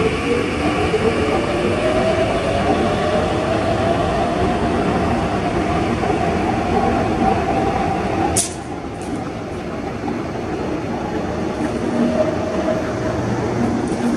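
Electric commuter train running, its motor whine rising slowly in pitch as it gathers speed over rumbling wheel noise. About eight seconds in there is a sharp click, after which the sound is quieter and duller.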